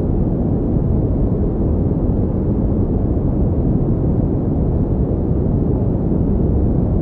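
Pink noise: a steady, unbroken rushing hiss weighted toward the low end, with no tones, rhythm or changes.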